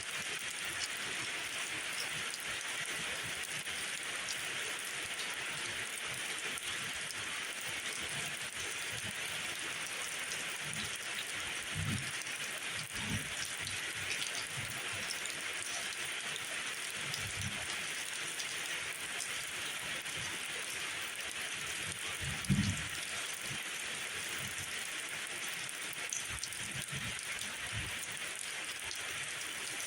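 Steady rain falling in an even hiss, with a few brief low rumbles in the second half, the loudest about three-quarters of the way through.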